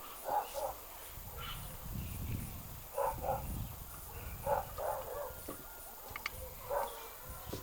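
A dog barking in short bouts of two or three barks, four times over.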